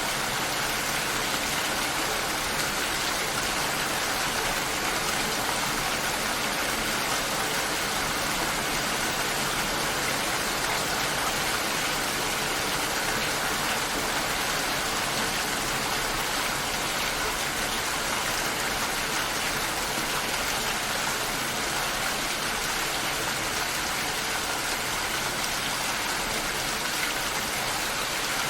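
Steady rain shower falling, an even hiss of rain without breaks.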